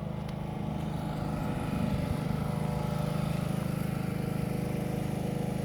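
A small engine-driven generator running steadily, with an even hum.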